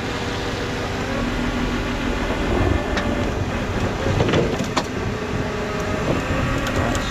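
Tow truck's diesel engine running steadily to drive the rollback's hydraulics, with a couple of sharp metallic clicks from the rigging.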